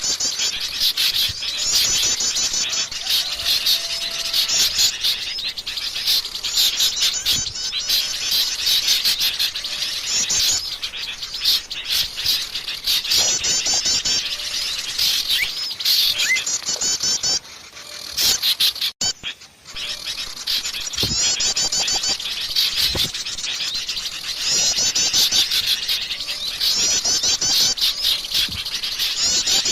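A dense chorus of small songbirds chirping and trilling agitatedly, rapid high calls repeating over one another without pause. The mix is a bird-lure recording of excited birds. The chorus drops out briefly a little past the middle, then resumes.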